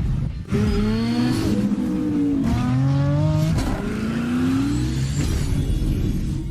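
1973 VW Beetle's air-cooled flat-four engine revving through a new EMPI two-tip exhaust, its pitch rising and falling several times, with a brief dip about half a second in.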